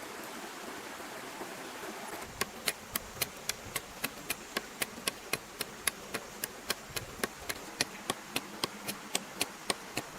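A series of sharp, evenly spaced taps, about four a second, starting a couple of seconds in, over a steady rushing background.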